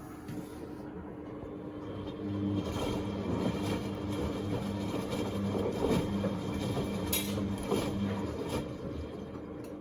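Beko WMB71642W front-loading washing machine in its rinse stage: the drum motor turns the drum for about six seconds, with laundry and water tumbling, over a steady hum, then stops. There is a sharp click near the end of the turn.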